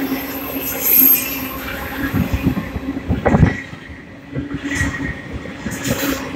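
Double-stack intermodal freight train passing close by, its steel wheels clattering and knocking over the rails. A brief high squeal comes about a second in, and a heavier clunk just after three seconds.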